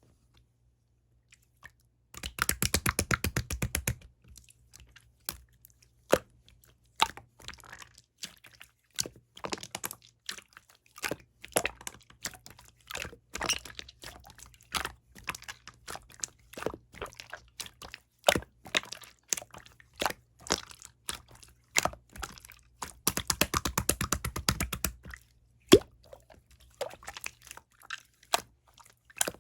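Clear slime being squished and poked by hand, giving scattered sticky clicks and pops. Twice it breaks into a run of rapid crackling bubble pops, a couple of seconds in and again later on.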